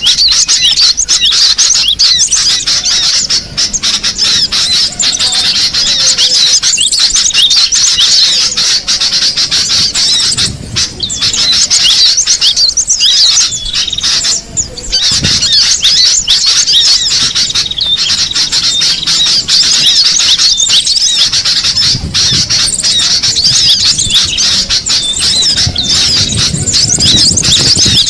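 Cinereous tit (gelatik batu) calling: rapid, high-pitched chirping that runs on almost without pause, with two short breaks midway.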